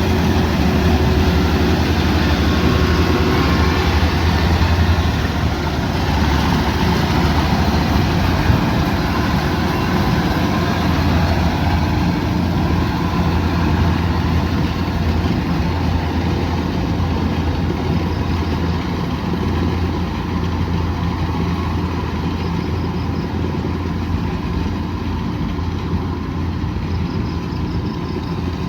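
Kubota DC108X combine harvester's diesel engine running steadily, a constant low hum with machinery noise over it.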